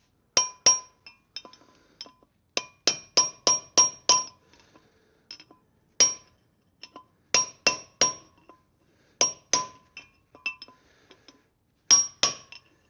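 Hammer blows on metal, ringing sharply, driving the old top bearing race out of a Land Rover Defender 90 wheel hub. There are about fifteen strikes in uneven groups, including a quick run of about six blows a third of a second apart.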